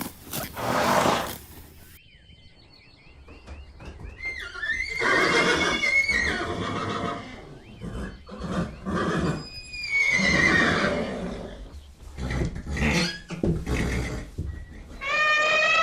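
Horses neighing and whinnying: several long, wavering pitched calls, the loudest and clearest starting near the end, with short breathy bursts between them.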